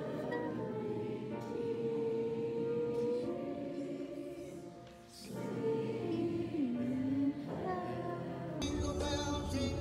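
A choir singing, fading down about five seconds in and then resuming. Near the end it cuts suddenly to different music with jingle bells.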